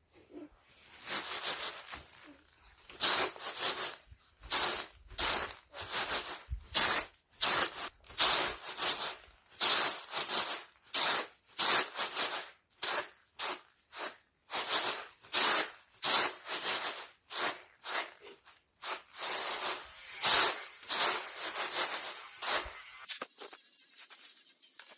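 Dried beans and bean pods rustling in rhythmic swishing strokes, about two a second, as the beans are threshed. The strokes start faint and die away near the end.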